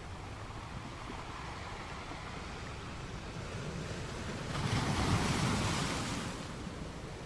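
Sea surf: waves washing onto the shore, one wave breaking louder about halfway through and then rushing out.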